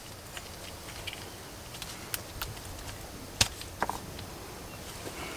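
Light scattered clicks and taps of small metal parts and tools being handled during a brake caliper rebuild, with a few sharper clicks in the middle.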